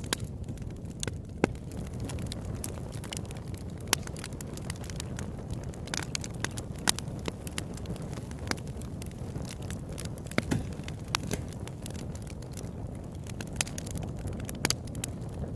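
Campfire burning steadily, with a low rumble of flame and irregular sharp crackles and pops of burning wood.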